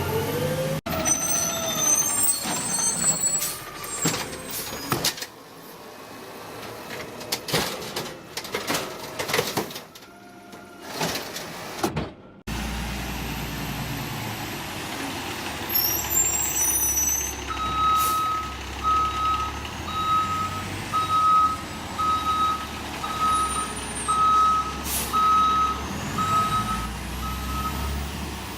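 Municipal garbage truck running, with clanks and knocks in the first half. In the second half it idles with a steady low rumble, a brief high squeal, and then a reversing alarm beeping about once a second.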